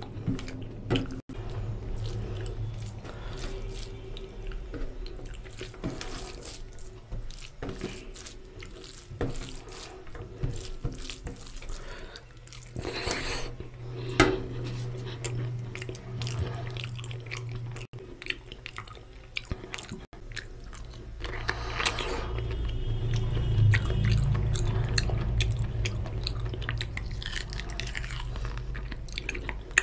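Close-miked eating: a person chewing mouthfuls of mutton curry and pulao with wet mouth smacks and clicks, and fingers squishing rice into oily curry. There are louder spells about 13 seconds in and again from about 22 seconds.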